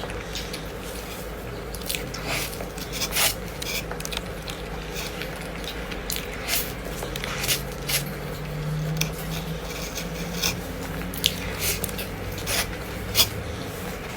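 A person biting and chewing food close to the microphone, with irregular crunchy bites and mouth noises over a steady low hum.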